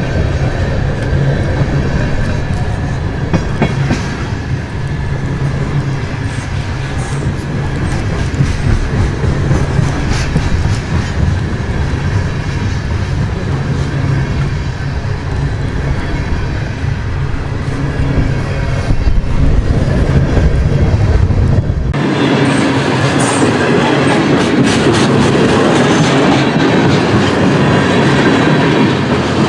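Long freight train's cars rolling past, steel wheels clicking over the rail joints above a steady low rumble. About 22 seconds in the sound abruptly becomes louder and hissier, with the deep rumble gone.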